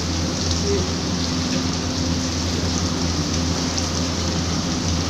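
Steady rain falling, a continuous even hiss with a few sharper drip ticks, over a low steady hum.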